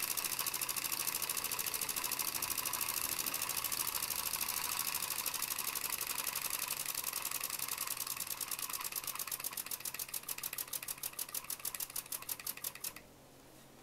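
Small toy V-twin steam engine from a model kit running with a fast, even chuff-clatter. It slows over its last few seconds into distinct beats and stops abruptly near the end.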